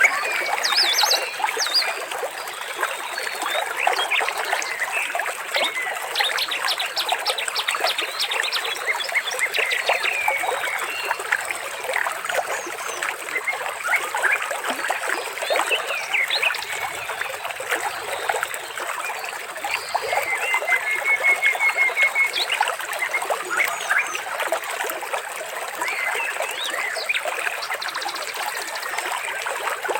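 Water trickling and babbling steadily, with birds chirping over it and a short rapid trill about two-thirds through.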